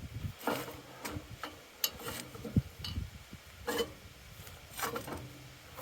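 Steel parts of a truck-hitch game hoist being handled and fitted together: scattered light clicks and knocks, spaced unevenly, as pieces and pins are set into place.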